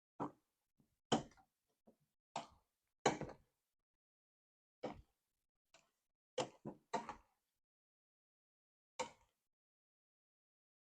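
Cooking utensil knocking and clattering against a pot while rice is mixed: about ten short, sharp clunks spaced unevenly, the loudest about a second and three seconds in.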